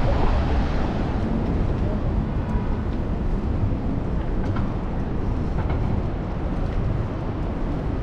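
Steady rush of wind over the microphone, mixed with tyre and street traffic noise during a bicycle ride, with a few faint ticks.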